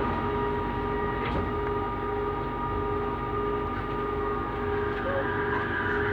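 Bombardier Innovia Metro 300 train running between stations, heard from inside the car: a steady whine of several held tones from its linear induction motors over continuous rumbling wheel and track noise, with a faint click about a second in.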